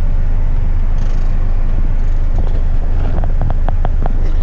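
Diesel engine of an eight-wheeler twin-steer front-lift garbage truck running, heard inside the cab as a steady low rumble. A series of light clicks comes in from about two and a half seconds in.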